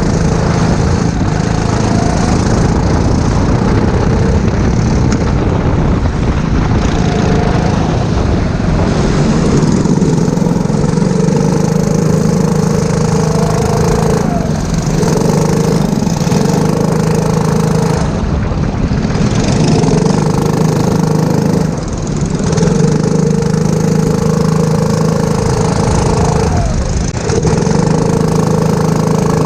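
Four-stroke rental kart engine running hard at a steady pitch. Its note drops briefly about four times as the throttle is lifted for corners, then picks up again.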